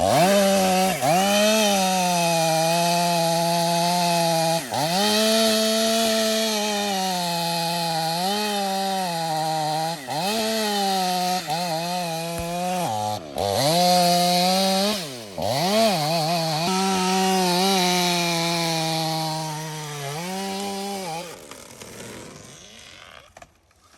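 Two-stroke chainsaw held at high revs while cutting through very hard, dense Australian pine (ironwood), its pitch dipping briefly several times as it works through the cut. It drops away about three seconds before the end.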